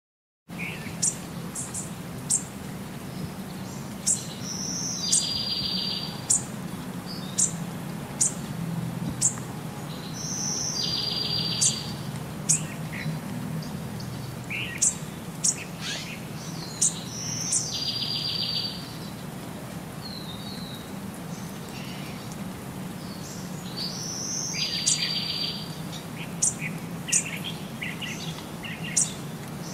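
Small bird chirping: many short, sharp high chirps, with a buzzy trill about a second long, led in by a brief higher note, repeating about every six to seven seconds over a steady low hum.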